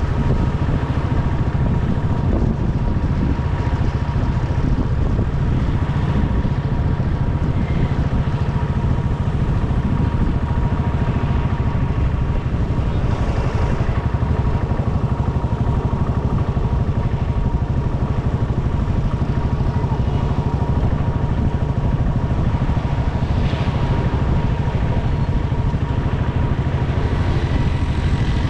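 Motorcycle engine running steadily while being ridden, with a low rumble and road noise and a thin steady high tone under it.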